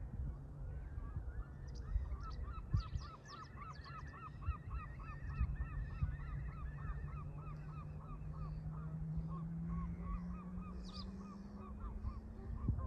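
Canada geese honking in a long run of short, repeated calls, about three a second. Beneath them runs a low steady hum that rises slightly in pitch near the end.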